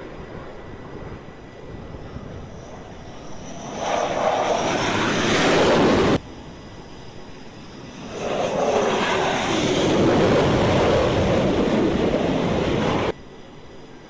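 Jet aircraft engines running loud on a carrier flight deck, a steady rushing roar that swells twice and each time cuts off abruptly.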